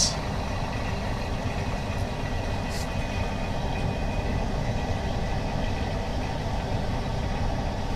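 Screen laminating machine running steadily through an OCA lamination cycle, its pump giving a constant mechanical noise, with a short hiss about three seconds in.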